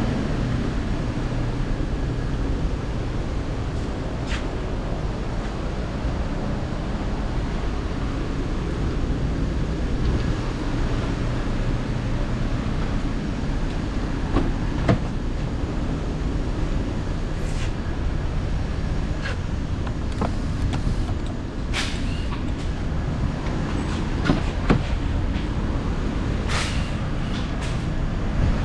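A 2019 Chrysler 300's 3.6L Pentastar V6 running at a steady idle, with a few brief sharp clicks.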